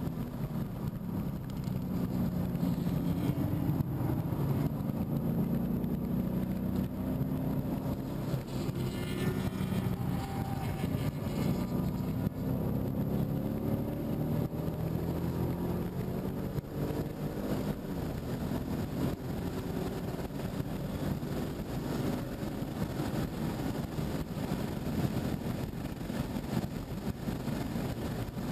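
2015 Ford Mustang GT's 5.0-litre V8 under load on track, heard from inside the car, its pitch climbing and dropping as the car accelerates and slows through the corners and down the straight.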